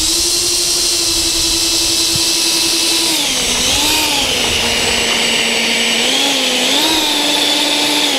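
Twin 70 mm, 12-blade electric ducted fans of an RC Boeing 737 MAX 8 model running with a steady whine. About three seconds in the pitch drops and wavers as the throttle comes back, holds lower, rises again near the seven-second mark, and falls away at the very end as the fans are cut.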